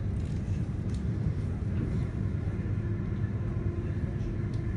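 Siemens Nexas electric suburban train heard from inside the carriage while running at speed: a steady low rumble of wheels on the track, with a faint steady hum joining about three seconds in.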